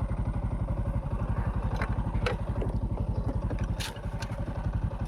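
Motorcycle engine idling, a steady rapid low putter, with a few light clicks over it.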